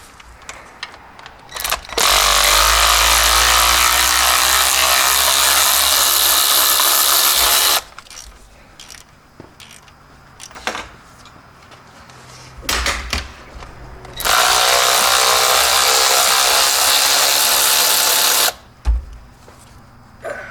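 A power tool runs in two long, steady bursts, about six seconds and then about four seconds, backing out a water pump mounting bolt on a Jeep 2.5L four-cylinder engine, with clicks and knocks of the socket and tools between the runs.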